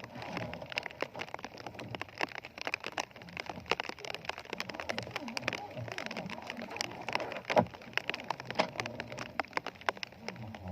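Rain falling, with a dense, irregular patter of raindrop ticks.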